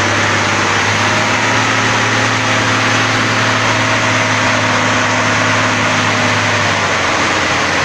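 Old truck engine idling steadily, loud and unchanging.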